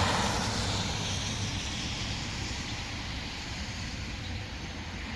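Road traffic: a passing vehicle's tyre and engine noise, loudest at the start and fading away over a few seconds.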